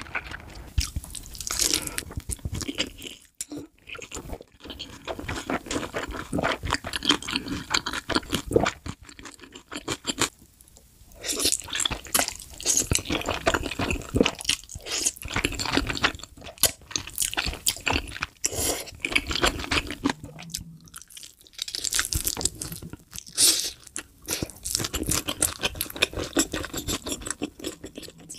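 Close-miked eating sounds: chewing with many crisp crunches and smacks as mouthfuls of noodles and sauced fried chicken are eaten, in bursts with short pauses between bites.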